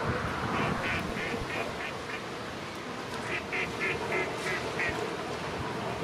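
A bird calling in two quick series of about six evenly spaced calls each, the second series starting about three seconds in, over steady wind noise.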